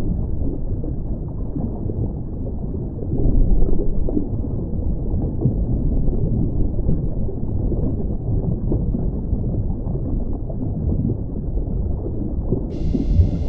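A loud, continuous deep rumbling noise with nothing high-pitched in it, swelling briefly about three seconds in: the unexplained 'strange sound' the recording sets out to capture.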